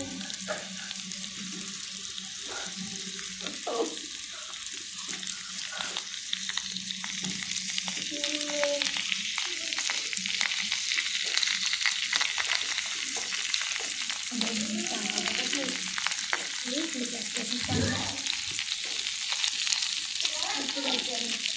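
Battered onion rings deep-frying in hot oil: a steady, dense crackling sizzle that slowly grows louder.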